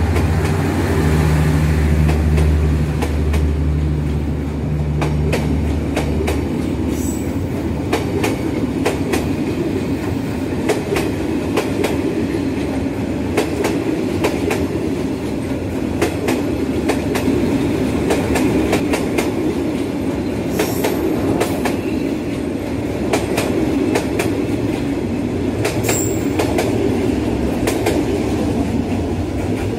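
Passenger train rolling past, its wheels clicking rhythmically over rail joints. A steady low hum fades out about six seconds in.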